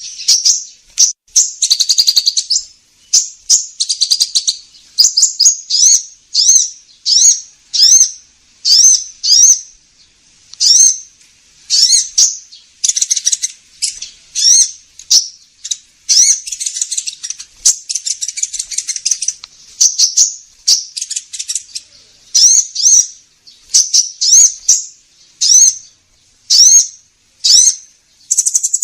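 Lure recording of a sunbird (the "kolibri ninja") calling: loud, high, sharp chirps repeated about once or twice a second, broken by a few longer, rapid twittering runs.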